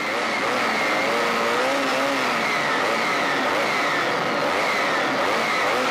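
Honda VFR400's V4 engine running with the revs rising and falling over and over, heard over a steady rush of wind and mechanical noise.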